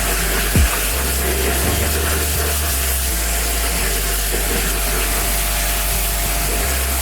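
Water spraying steadily onto a truck's body during a wash, a constant hiss. A low machine hum underneath steps up about a second in, after a short knock, and drops back near the end.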